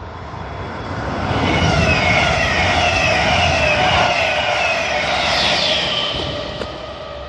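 Red DB Regio double-deck regional train passing close by: a rumble of wheels on rail with whining tones that slide downward as it goes past. It swells over the first two seconds, is loudest in the middle and fades toward the end.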